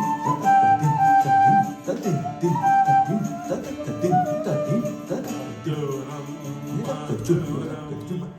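A flute playing a Carnatic melody of held and gliding notes over dense hand-drum accompaniment with deep, pitch-bending strokes, above a steady drone note.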